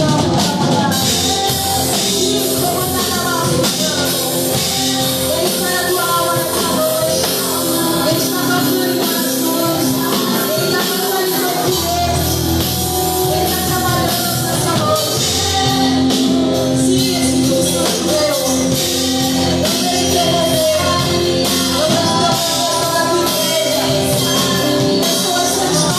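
Live gospel worship music: a church band with drums and bass playing under sung vocals. The deep bass drops out for a few seconds near the middle and then comes back in.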